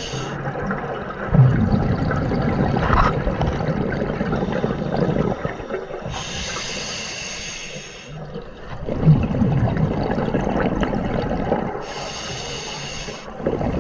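Scuba diver breathing through a regulator underwater: long bubbling, rumbling exhalations, each followed by a hissing inhale of about a second, twice, some six seconds apart.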